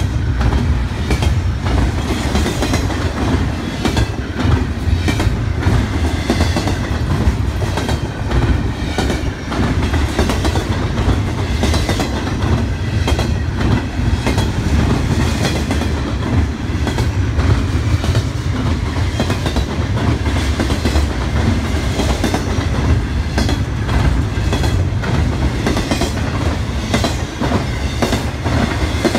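Double-stack intermodal freight train rolling past at close range: a steady rumble of the cars with a constant irregular clatter of wheel clicks on the rails.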